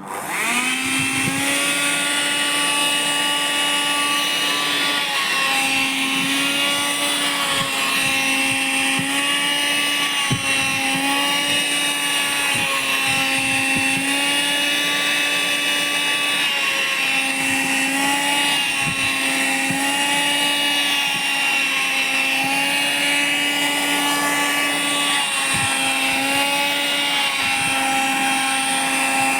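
Vacuum cleaner switched on, its motor whine rising to speed within about a second, then running steadily. Its pitch dips and recovers again and again as the nozzle sucks in nylon shorts and underwear and the airflow is choked.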